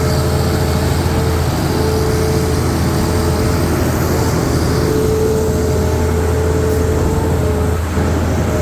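A concrete truck's heavy diesel engine running steadily with a deep drone. A mid-pitched whine over it breaks off and comes back a few times.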